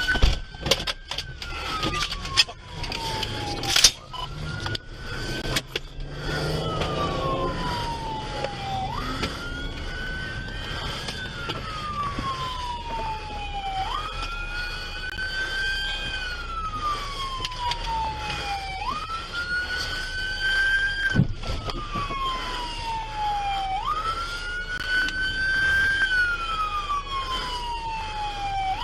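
Police car siren on a slow wail, each cycle rising quickly, holding briefly and falling slowly, repeating about every five seconds. A second, higher siren joins about halfway through. A few sharp knocks in the first six seconds.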